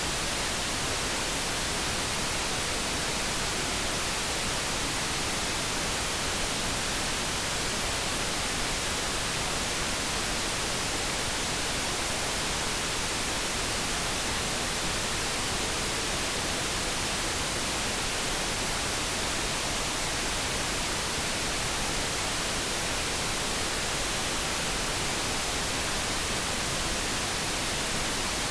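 Steady synthesized noise, an even, unchanging hiss with no tones or sudden sounds in it.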